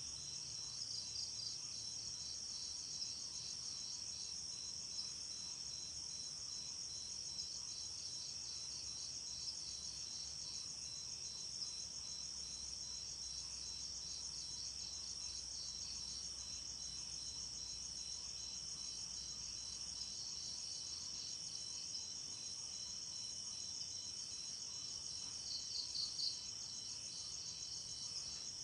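Night insects chirping steadily: a continuous high trill with rapid pulsed chirps beneath it, briefly louder near the end.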